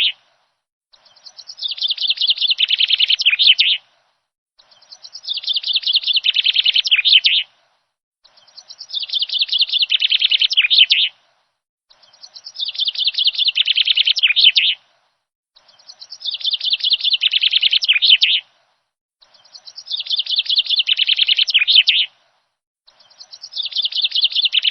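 A songbird singing the same rapid, high-pitched phrase over and over, about seven times. Each phrase is a quick run of notes lasting about three seconds, starting soft and growing louder, then stopping for about a second before the next.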